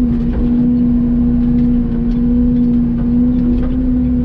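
Mini excavator's diesel engine running steadily at working speed, one constant pitch throughout, with faint scattered knocks and snaps as the bucket works through brush.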